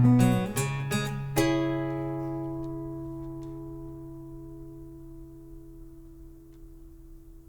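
Acoustic guitar ending a song: a few strummed chords, then a final chord struck about a second and a half in and left to ring, dying away slowly.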